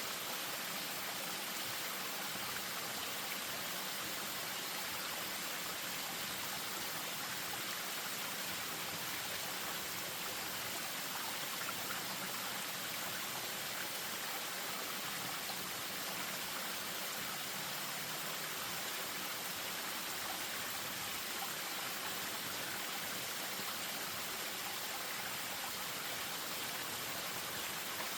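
Spring-fed stream spilling down a small waterfall: a steady, unbroken rush of running water.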